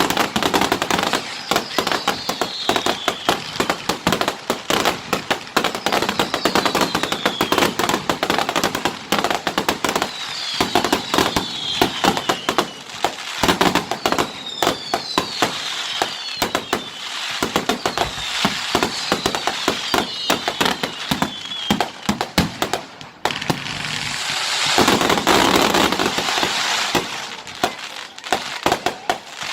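Fireworks going off in rapid succession with constant crackling and bangs, and whistles that fall in pitch rising over them every couple of seconds. Near the end comes a denser, louder stretch of hiss and crackle.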